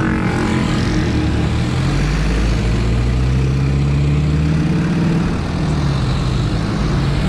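Wind rumbling on the microphone of a moving bicycle, with a motor vehicle's engine passing close by from about two seconds in, its pitch rising slightly before it fades.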